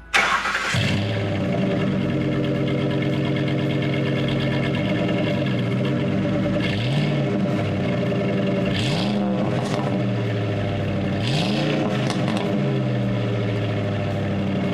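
Ford F-150 engine starting up through a newly installed MBRP 3-inch cat-back exhaust, then idling steadily. The engine is revved briefly three times, at about seven, nine and eleven seconds in.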